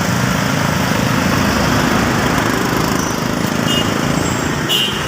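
A small vehicle engine running steadily close by, a fast even pulsing in stopped heavy traffic.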